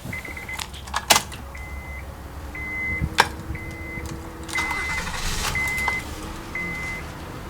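A car's warning chime beeping at a steady high pitch about once a second, mixed with sharp clicks and a rustle of someone moving in the car's cabin.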